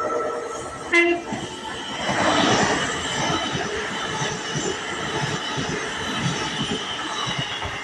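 A train passing on the track, a steady rush of wheel and rail noise that grows louder about two seconds in, with a brief horn toot about a second in.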